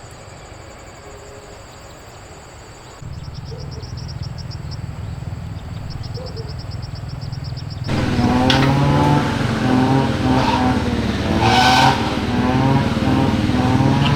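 An engine running, starting suddenly about three seconds in and getting louder, with its pitch rising and falling as it is revved from about eight seconds in.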